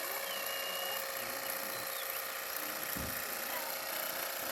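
A steady mechanical hum, with a dull knock about three seconds in.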